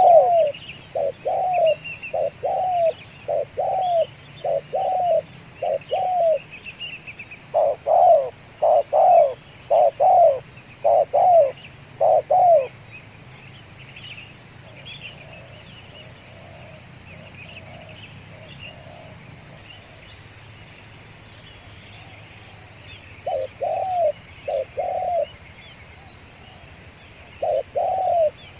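Spotted doves cooing in repeated rounds of short, low coo notes. The cooing stops for about ten seconds partway through, leaving only fainter coos, then resumes near the end. Small birds chirp higher up, over a steady high-pitched whine.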